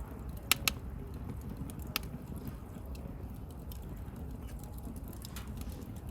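Wood bonfire burning, a steady low rumble of flame with sharp crackling pops: two loud ones close together about half a second in, another at about two seconds, and lighter ticks scattered throughout.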